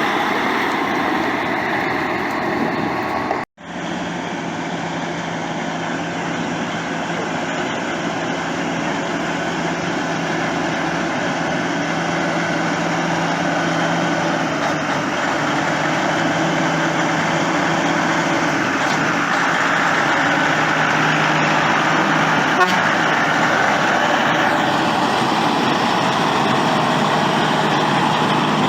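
Truck engines running with a steady drone and the noise of traffic. The sound cuts out sharply for a moment about three and a half seconds in.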